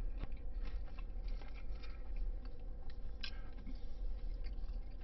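Close-up chewing of a bite of fried chicken sandwich, with small crunches and wet mouth clicks scattered throughout.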